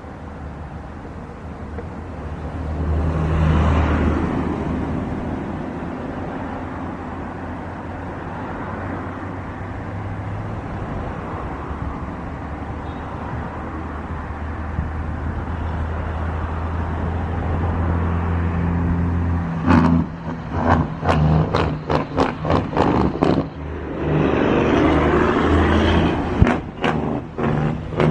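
A road vehicle passes close by, its sound swelling and falling in pitch, over a steady low engine hum. From about two-thirds of the way in comes a run of irregular sharp thumps and knocks.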